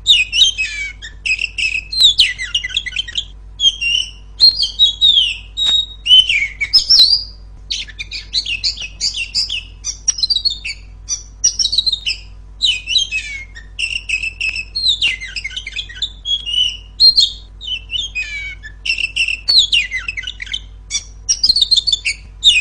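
Female Oriental magpie-robin singing loudly and almost without pause: a rapid run of varied chirps, whistles and rasping notes, with one short break about seven seconds in.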